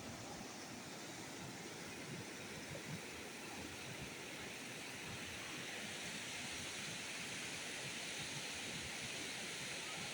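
Rushing river water, a steady hiss that grows a little brighter about halfway through.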